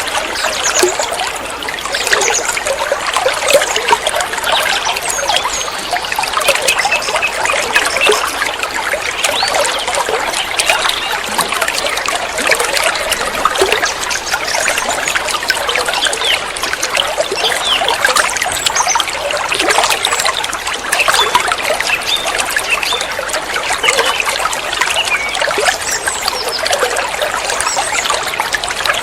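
Water trickling and babbling steadily over stones, like a small stream or cascade, with a dense bubbling texture.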